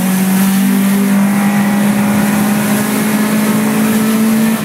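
Car engine heard from inside the cabin, pulling hard at steady high revs, its note climbing slowly as the car accelerates, over road and wind noise.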